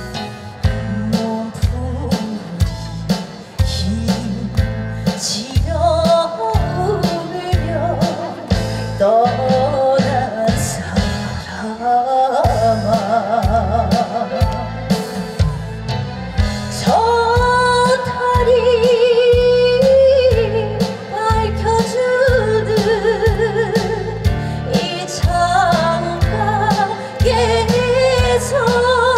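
A female singer sings a trot ballad, with heavy vibrato, over a band accompaniment with a steady drum beat. The voice comes in about six seconds in, after an instrumental opening.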